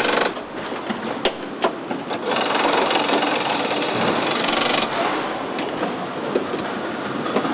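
Truck assembly-line factory noise: scattered sharp metal knocks and clicks over a steady machine clatter, with a strong hiss lasting about two and a half seconds in the middle.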